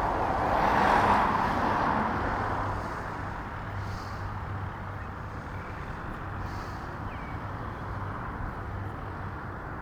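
A car passing close by, loudest about a second in and fading away, then steady road traffic noise with a low engine hum.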